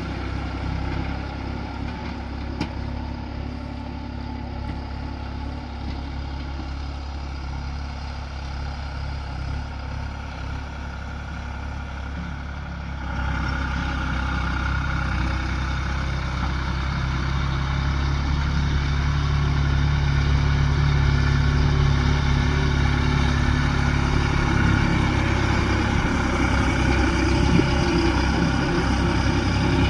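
New Holland 5500 tractor's diesel engine running steadily. About halfway through it gets suddenly louder, then rises a little more over the next several seconds.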